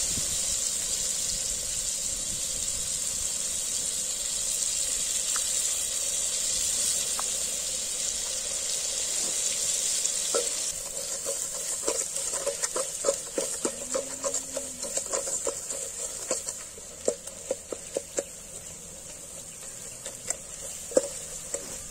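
Onion-tomato masala with chilli and coriander powder sizzling in oil in a metal pot over a wood fire, a steady high hiss. About halfway through, a steel spoon starts stirring it, clinking and scraping against the pot in a run of irregular clicks while the sizzle fades.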